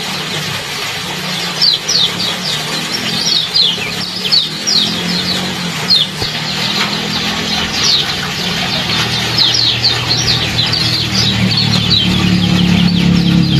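Small songbirds giving rapid, repeated high chirps, each a quick downward sweep, over a steady background noise and a low hum that grows louder near the end.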